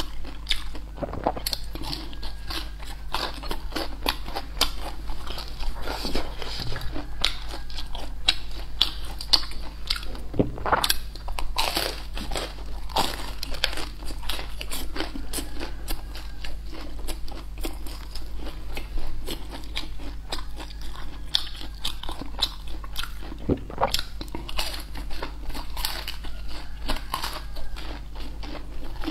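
Close-miked crunching and chewing of a deep-fried battered mushroom: many sharp, crisp crunches of the fried coating, with a few louder bites about a third of the way in and again near the end.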